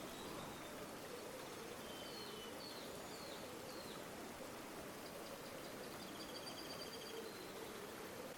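River water flowing steadily, with small birds calling over it: a few short chirps about two seconds in and a rapid trill past the middle.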